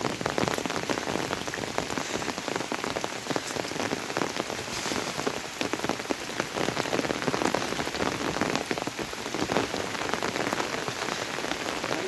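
Steady monsoon rain hitting an umbrella close overhead: a dense, irregular stream of sharp drop hits over a hiss of falling rain.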